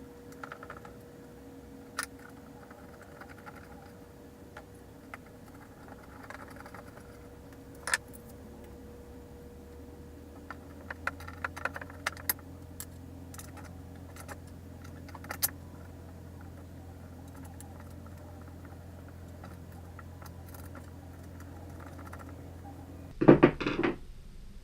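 Scattered light metallic clicks and clinks of skateboard truck hardware and a skate tool being handled while the trucks are bolted on, over a faint steady hum. A louder clatter comes near the end.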